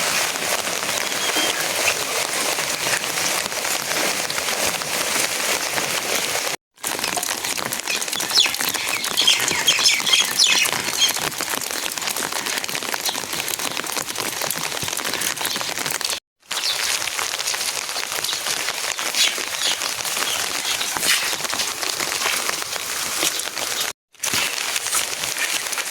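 Steady heavy rain falling and pattering on surfaces, a dense hiss dotted with drop hits. The sound drops out briefly three times at cuts.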